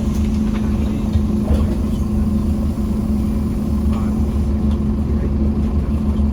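Scania CN230UD OmniCity double-decker bus's diesel engine running steadily under load, heard from on board, with a constant deep hum and no gear change or rev sweep.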